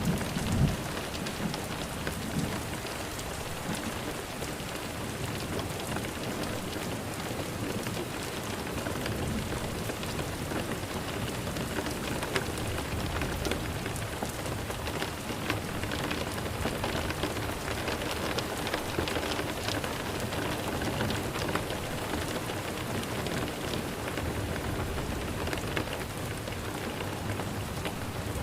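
Steady rain falling, with scattered drops ticking on a surface, and a brief low rumble right at the start.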